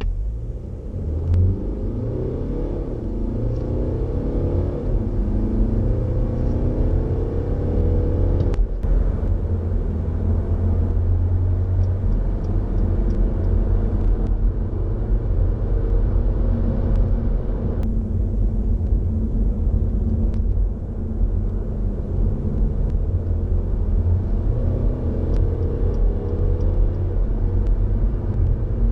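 Mercedes-Benz C 220d's 2.1-litre four-cylinder turbodiesel accelerating hard, with a heavy low rumble and a pitch that climbs through the gears of the 7G-Tronic Plus automatic. There is a sharp break at a gear change about nine seconds in, and another climb in pitch near the end.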